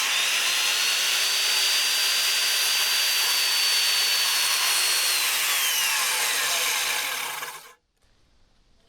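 Circular saw cutting through lumber, running steadily with a high motor whine. The whine drops in pitch about five seconds in, and the cutting noise stops abruptly near the end.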